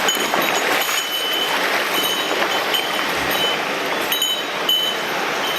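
Mountain stream water rushing steadily over rocks, with brief high-pitched tones now and then on top.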